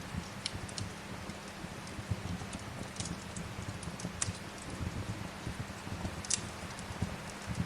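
Wood fire crackling with sharp, irregular pops, the loudest a little past six seconds in, over a steady hiss of rain.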